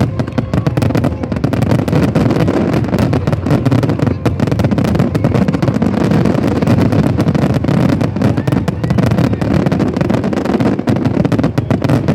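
Fireworks going off in a dense barrage: many sharp bangs and crackles a second over a continuous low rumble.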